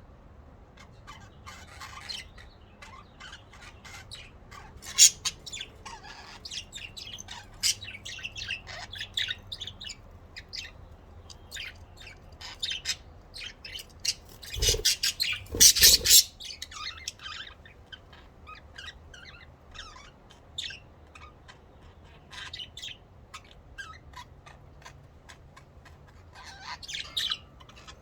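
Pet budgerigars chirping and chattering in many short, high calls, with a louder flurry of sound about halfway through.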